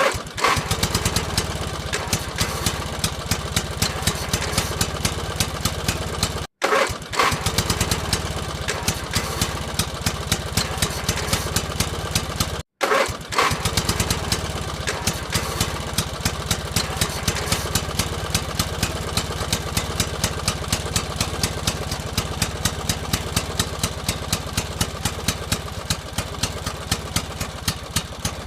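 Small engine running steadily with a fast, even knocking beat, like a tractor engine. It cuts out abruptly twice, about six and about twelve seconds in, and picks up again each time with a brief louder burst.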